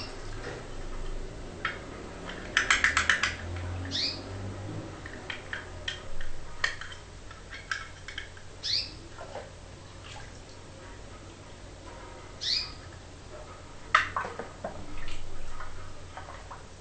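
Cage birds chirping now and then with short rising calls, with scattered light clicks and a quick run of about eight sharp taps near the start.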